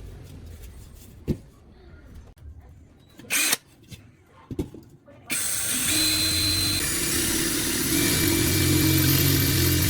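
A few handling knocks and clicks, then an electric power tool switched on about halfway through and running steadily at full speed with a loud whirring hum.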